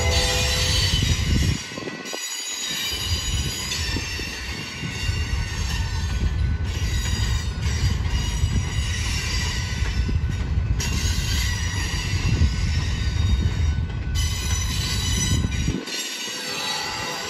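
Freight train of gondola cars rolling past, with a steady low rumble of wheels on rail and high-pitched wheel squeal over it.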